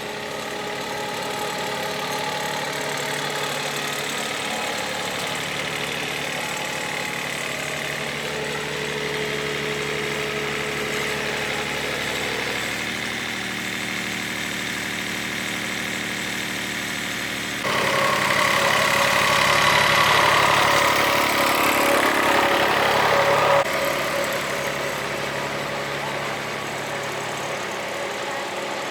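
Engine of a repaired agricultural machine idling steadily. Past the middle it suddenly runs louder and brighter for about six seconds, then drops back to the steady idle.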